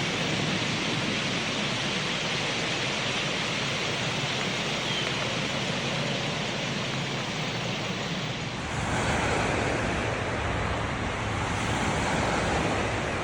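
Outdoor nature ambience: a steady rushing noise that grows louder and fuller about nine seconds in.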